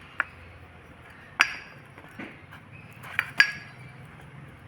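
A handful of sharp metallic clinks with brief ringing, the loudest two close together near the end, as the removed water pump is rocked on its shaft. The pump's worn bearing has heavy play, letting the pulley and shaft knock back and forth.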